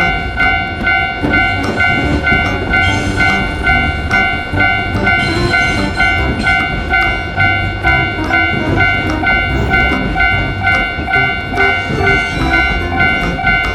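Japanese railroad crossing warning bell ringing in an even, rapid rhythm of about two to three strikes a second, over the rumble of a passing train.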